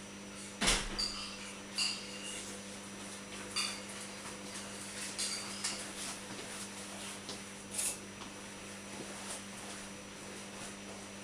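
Dripping tap: single drops fall at uneven intervals, roughly one a second, each a short ringing plink, the loudest about a second in and again near eight seconds in. A steady low hum runs beneath.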